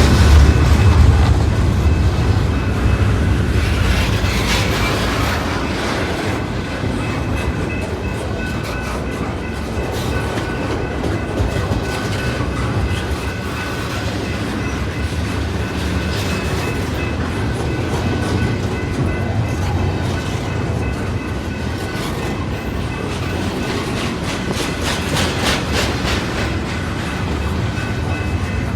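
Intermodal freight cars of a CPKC train rolling past, with a steady rumble and the wheels clicking over rail joints. The rumble is heaviest for the first few seconds, then settles to an even level.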